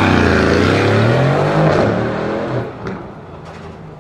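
A Mercedes-AMG performance car's engine revving under acceleration, its note climbing in pitch for the first two seconds. After that it drops away sharply to a low background.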